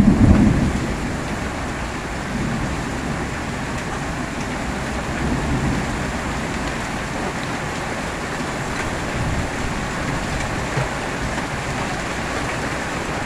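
Steady heavy rain pouring down in a thunderstorm, after the last of a low thunder rumble fades out in the first second.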